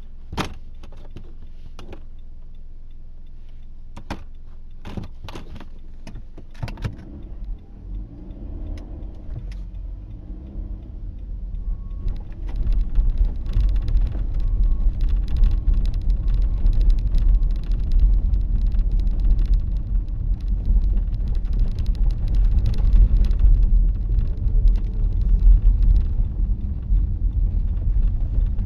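Car driving on packed snow, heard from inside through a dashcam. The first few seconds hold only a low background with a few sharp clicks. Then the car gets moving, and the engine and road rumble build, loud from about twelve seconds in, with a crackle of tyres over packed snow and ice.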